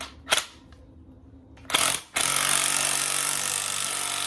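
Small impact wrench driving a three-jaw puller's centre bolt against a crank pulley: a short burst about two seconds in, then continuous hammering as the puller tries to draw the pulley off.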